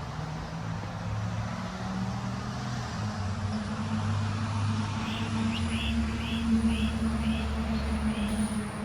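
A bird calling a run of about seven short chirps, roughly two a second, starting about halfway through, over a steady low hum.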